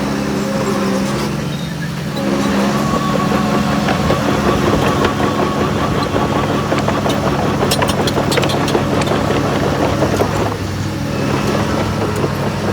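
Heavy diesel engine of earthmoving machinery running steadily. It gets louder and works harder from about two seconds in until about ten seconds in, with scattered metallic clanks and rattles.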